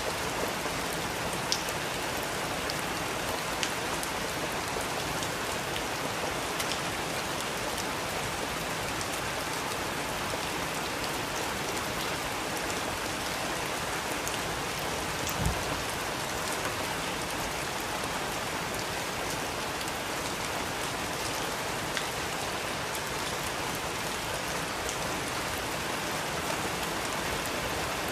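Steady rain falling, with scattered louder drops ticking on a surface and one dull thump about halfway through.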